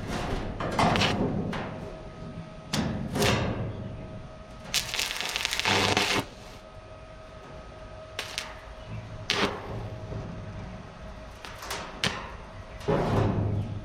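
Scattered knocks and thuds of hand work, several sharp with a short ring, and a rasping rush lasting about a second and a half about five seconds in.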